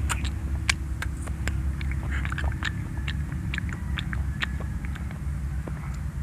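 Children eating soft berries, with many small wet clicks and smacks of chewing and lips over a steady low hum.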